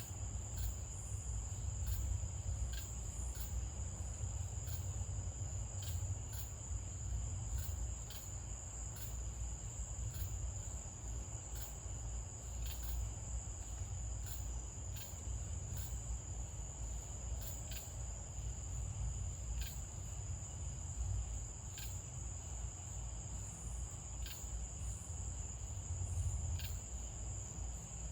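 Night chorus of crickets: a steady high-pitched trill that never breaks, with faint ticks about once a second. A low rumble runs underneath.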